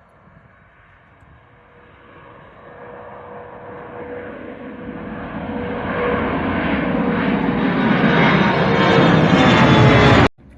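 Airliner engines at takeoff power, growing steadily from faint to loud, then cutting off suddenly near the end.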